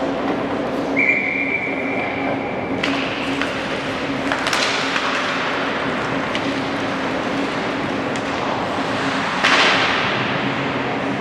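A referee's whistle blows once, a steady high tone held for about two seconds, over a constant arena hum; a few sharp knocks and rushes of noise follow, the loudest near the end.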